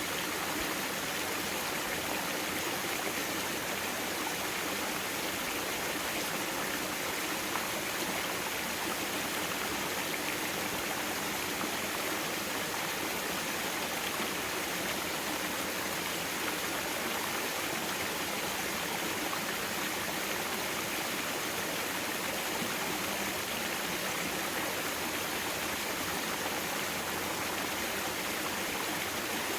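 Mountain stream water rushing and splashing over rocks in a valley: a steady, unbroken flow.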